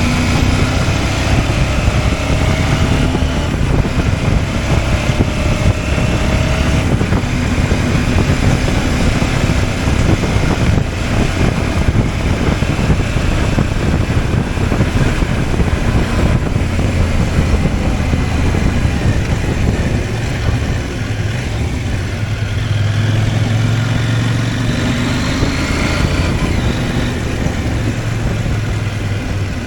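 CFMOTO 800MT's parallel-twin engine running on the move, its pitch rising and falling with throttle and gear changes and climbing clearly about 22 seconds in, over heavy wind rush on the microphone.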